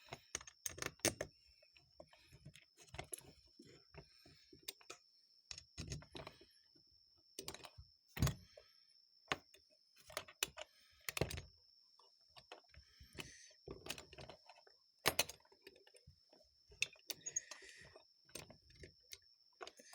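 Small metal carburetor parts and hand tools clicking and tapping at irregular intervals, as screws are fitted into a Rochester Model H carburetor on the bench.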